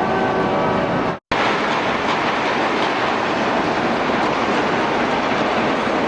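Train running at a station platform: a loud, steady rushing noise, broken by a short silent gap about a second in, after which it carries on unchanged.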